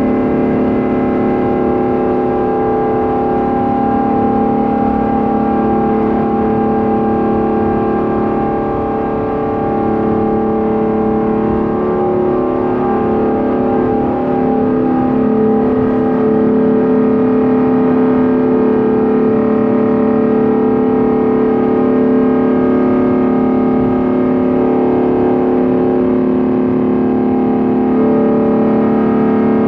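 Rolls-Royce Trent XWB turbofans of an Airbus A350-900 at takeoff power, heard from inside the cabin: a very loud, steady drone of several sustained tones over a rumble, which waver briefly about a third of the way in. The engine noise on this takeoff was unusually loud, enough to make conversation nearly impossible.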